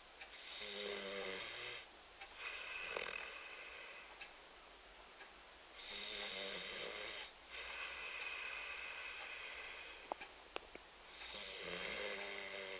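Six-month-old black Labrador puppy snoring in its sleep: slow, even breaths, with a low buzzing snore on about every other breath. A few faint clicks come about three-quarters of the way through.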